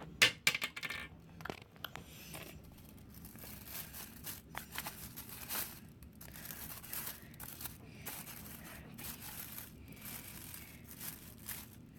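Felt-tip marker writing on a crinkly plastic bag: a run of short scratchy strokes with the bag crinkling, after a few sharp clicks in the first second or so.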